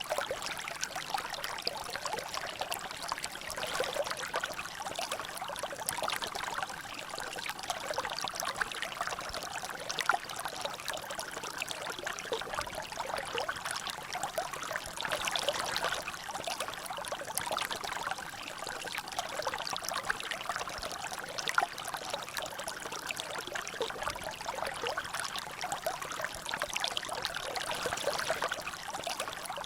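Water trickling and dripping in a natural drainage, a steady stream of many small splashes with an occasional louder drop.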